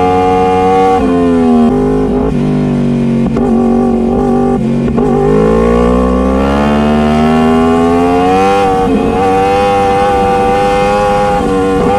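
Motorcycle engine running at high revs. Its pitch drops twice early on, climbs steadily from about the middle, then holds high.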